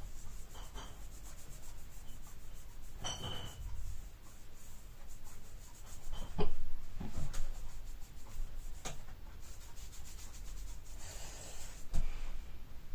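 Rubbing and scraping on the hard case of a wall clock as it is being repainted, with scattered light knocks and clicks; the loudest knock comes about six and a half seconds in, and a short hissing scrape comes about eleven seconds in.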